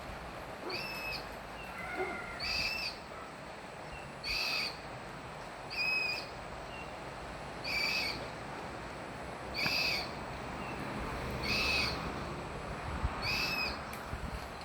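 Black cockatoo calling, a harsh two-toned call repeated eight times at about two-second intervals.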